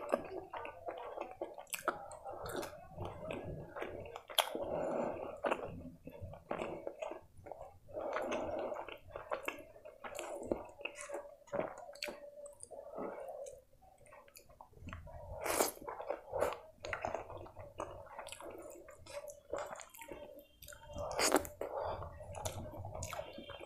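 Close-miked chewing of rice and chicken curry, with irregular wet smacks and mouth clicks.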